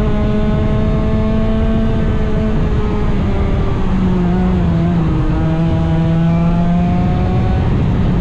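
100cc racing engine running hard at high revs, its pitch creeping up, dipping about four seconds in, then climbing again as it accelerates.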